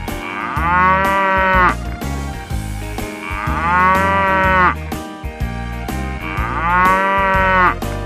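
Cow mooing three times, each moo about a second and a half long and arching in pitch, over a light background music bed.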